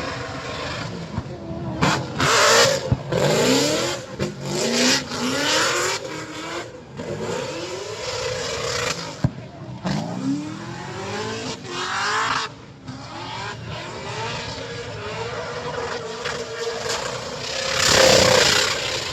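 Car engines revving hard and accelerating, their pitch climbing in repeated sweeps, with loud rushing surges about two seconds in and again near the end.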